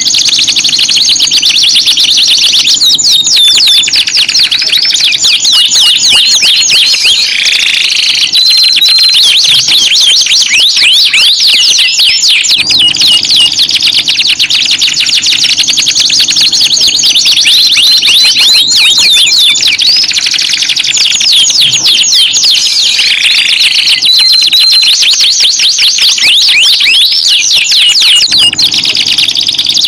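Domestic canary song played as a lure to start silent canaries singing: continuous loud, rapid rolling trills and fast sweeping whistles, with a few lower, slower descending phrases.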